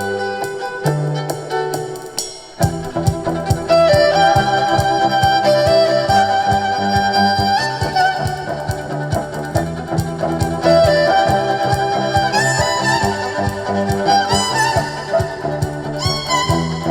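Live band playing an instrumental tune: a sustained melody line over bass and a steady beat. The full band comes in again about two and a half seconds in, after a brief drop.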